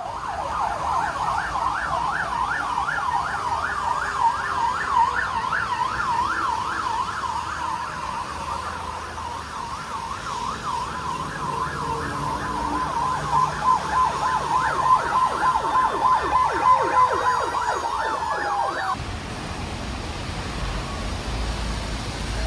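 Emergency vehicle siren in a fast yelp, sweeping up and down several times a second. Later a second siren overlaps and the pitch slides lower, then both cut off abruptly near the end.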